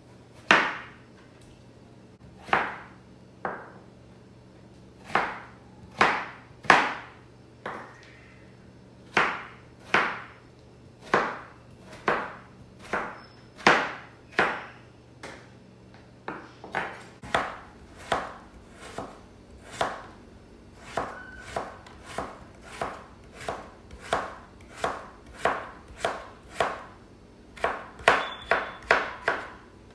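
Knife chopping on a cutting board: single sharp strokes about a second apart, quickening in the second half to a couple of strokes a second.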